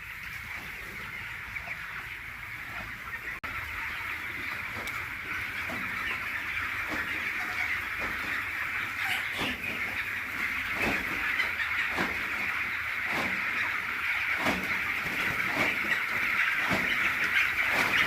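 A large flock of chickens in a poultry house, a dense steady chorus of chirps and clucks that grows gradually louder.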